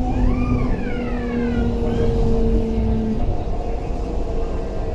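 MTR Tuen Ma Line C-train running at speed, heard from inside the carriage: a steady rumble of the wheels on the track under a steady hum that cuts off about three seconds in. A brief whine rises and falls in pitch during the first two seconds.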